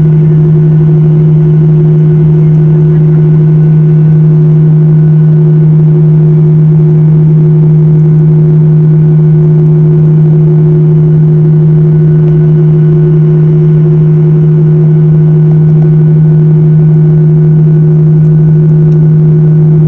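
Airliner cabin noise in flight: engines and airflow making a steady, loud drone with a strong low hum and a fainter hum above it that hold the same pitch throughout.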